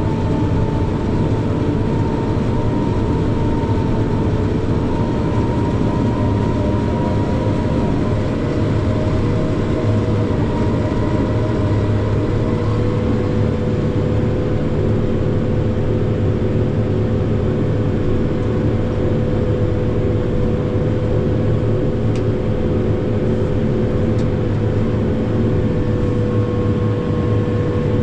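Self-propelled forage harvester running steadily under load while chopping corn for silage: a continuous loud drone with a steady whine over it.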